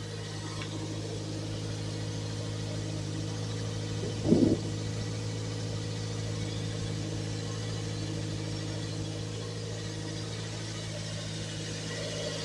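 2000 Toyota MR2 Spyder's 1.8-litre inline-four running a steady, even fast idle after a cold start. About four seconds in there is one short, louder sound with a wavering pitch.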